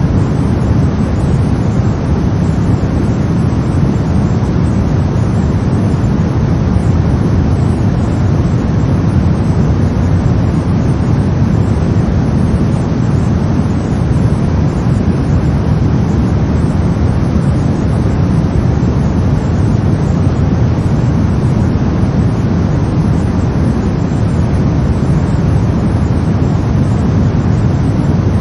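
Brown noise: a steady, deep rumbling hiss with its energy mostly low down, unchanging throughout.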